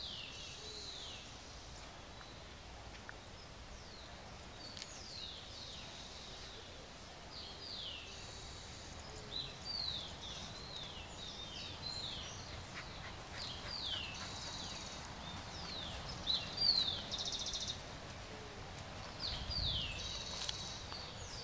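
Birds chirping in the background: many short falling whistled calls, one after another, with brief buzzy trills now and then.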